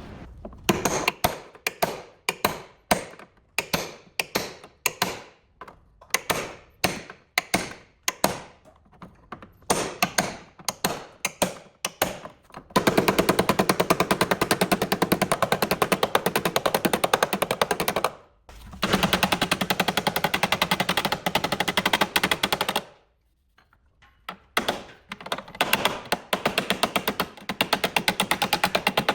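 Hammer blows on sheet metal, about one or two a second, each ringing briefly. Then a pneumatic hammering tool rattles in two long rapid-fire bursts of about five and four seconds, and separate hammer blows follow.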